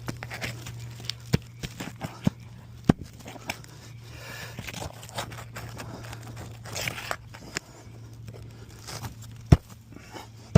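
Roof shingles being handled, with scraping, tearing and crinkling, and a few sharp knocks, the loudest near the end, over a steady low hum.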